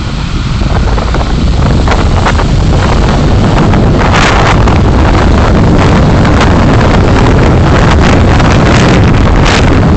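Wind buffeting and road rumble from a moving car on a dashcam microphone, growing louder over the first couple of seconds and then holding steady, with scattered short crackles.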